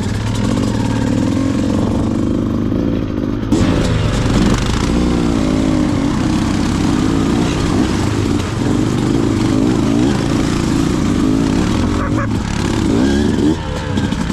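Beta 200RR two-stroke dirt bike engine running under changing throttle, its pitch rising and falling with the revs. It opens up louder about three and a half seconds in.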